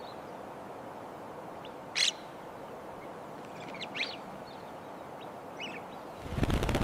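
Birds calling over a steady outdoor hiss: one sharp call about two seconds in, another about four seconds in, and a few fainter ones. Near the end, a loud rapid fluttering of flapping wings.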